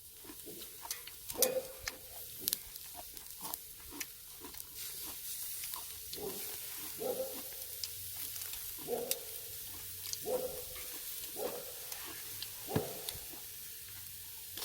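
Pork neck sizzling on a charcoal brazier grill, a steady hiss broken by many sharp crackles and clicks and soft knocks about once a second.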